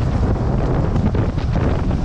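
Heavy wind rushing over the microphone while riding down a snowboard run: a steady, loud low rumble with a hiss over it.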